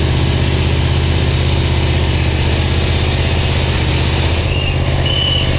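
Small engine of a ride-on miniature railroad locomotive running steadily with an even, fast pulse. Two short high-pitched squeaks come near the end.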